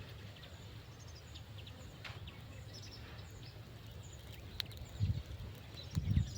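Rural outdoor ambience: scattered faint bird chirps over a steady low rumble, with two heavier low bumps about five and six seconds in.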